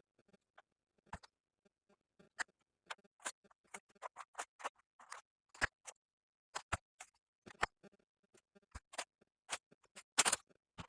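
Twigs and small branches being cut and snapped while pruning: irregular sharp clicks and snaps, a few a second, with a longer, louder crackle near the end.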